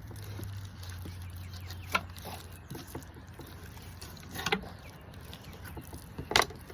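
Knife work while filleting a carp: three sharp knocks of the knife and fish against the cutting surface, the last the loudest, over a low steady hum.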